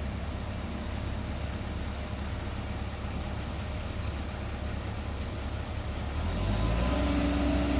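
Heavy diesel engine running steadily. About six seconds in it grows louder and a steady whine joins it.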